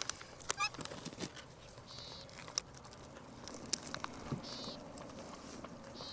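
Capuchin monkey giving short, high-pitched chirping squeaks in the first second, then a few fainter high calls, with light clicks and taps in between.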